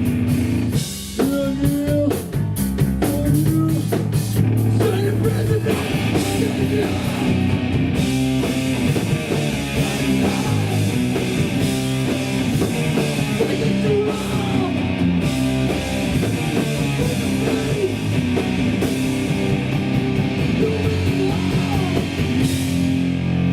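Hardcore punk band playing live: distorted electric guitars, bass and drum kit at full volume, settling into a held chord near the end.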